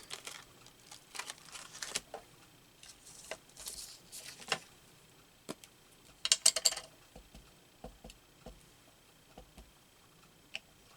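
Craft supplies being handled on a desk: scattered light taps and clicks of stamps and small items set down, with short spells of paper rustling, the loudest a brief burst about six seconds in.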